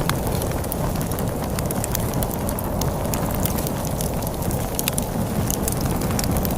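Log fire crackling with frequent sharp pops and snaps over a steady low rumble of storm wind.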